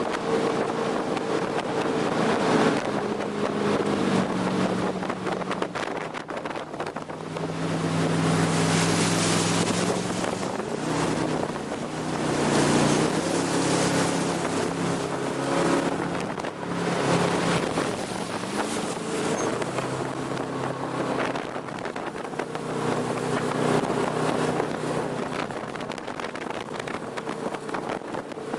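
Jet boat under way: its engine runs steadily, the engine note shifting up and down several times with the throttle, under a loud rush of wind on the microphone.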